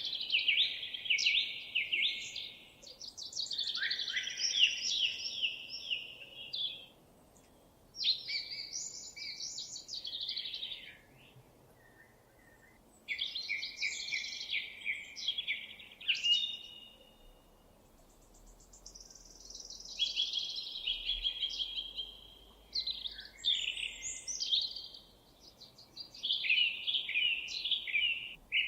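A songbird singing rapid, varied phrases of a few seconds each, high-pitched trills and warbles, with pauses of a second or two between phrases.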